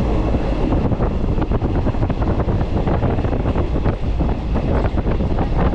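Train on the move: a steady, loud rumble with rapid rattling and clatter, and wind buffeting the microphone.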